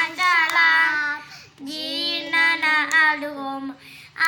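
A child singing solo: long held notes with vibrato, in two phrases with a breath between them.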